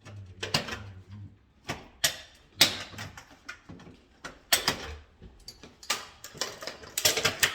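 Hand tools and wiring parts being handled during electrical wiring work: irregular sharp clicks and snaps with short scraping sounds, the loudest a little over two and a half seconds in and a close cluster near the end.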